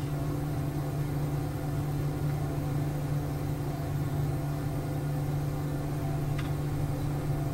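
A steady low mechanical hum with a strong droning tone and an even hiss behind it, like a running motor or appliance, and one faint click near the end.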